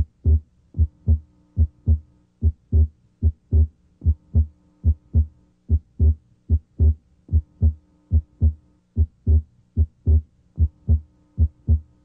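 Heart sounds heard through a stethoscope diaphragm at the left second interspace: a steady run of paired beats, about 75 a minute. The second heart sound is abnormally widely split, and the split comes and goes with breathing.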